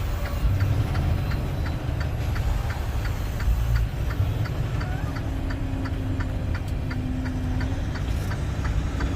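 Semi truck's turn-signal relay clicking evenly, about three to four clicks a second, over the low rumble of the truck's diesel engine heard inside the cab.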